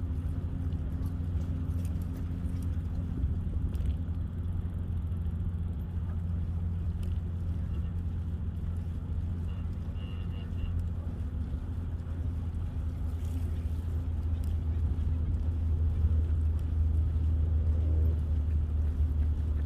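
Steady low rumble of wind and rolling noise on the microphone of a moving bicycle, growing a little louder near the end.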